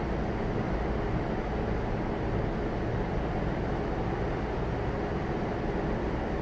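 Inside a stationary E233-1000 series electric train car: a steady hum and hiss from the car's onboard equipment while it waits to depart.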